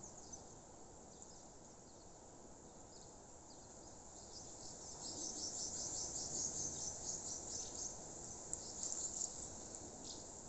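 Outdoor nature ambience of scattered high-pitched chirps, with a fast run of chirps about five to seven seconds in, over a steady low background hiss.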